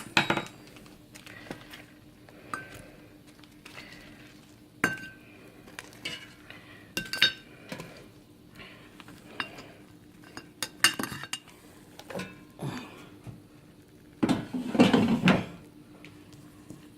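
Kitchen utensils clinking and tapping against the metal air fryer basket and a dish while cooked chicken drumsticks are handled. It is a string of sharp clinks, some ringing briefly, with a longer, louder clatter near the end.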